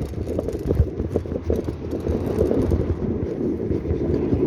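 Wind buffeting the microphone of a camera carried on a moving bicycle: a continuous low, uneven rumble with irregular knocks and rattles from the ride.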